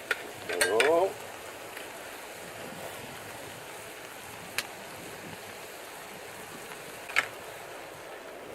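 Steady rushing noise of outdoor water, with a few sharp single clicks: one near the start, one about four and a half seconds in and a louder one about seven seconds in. A short burst of a voice comes about half a second in.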